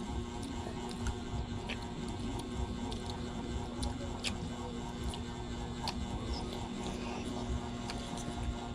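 Mealtime room ambience: a steady hum with scattered light clicks through it.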